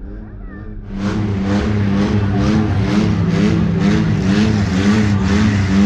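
Derby car engines revving hard, getting suddenly louder about a second in, the pitch rising and falling over and over as the drivers work the throttle.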